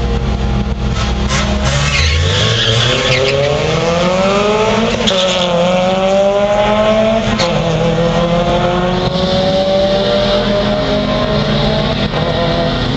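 Drag-racing cars idling at the start line, then launching about two seconds in and accelerating hard down the strip, the engine pitch climbing and dropping back at each upshift, twice.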